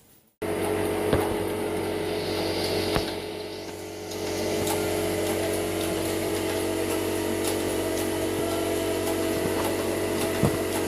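Vehicle running at a steady road speed: an even engine and road drone with fixed low tones, a slight dip in level a few seconds in, and a few faint ticks.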